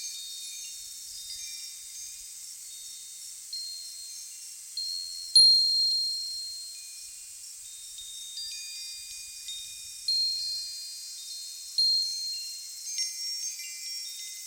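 Metal wind chimes ringing, high clear tones struck at irregular moments and left to ring on, several overlapping; the loudest strike comes about five seconds in, with a flurry of strikes near the end.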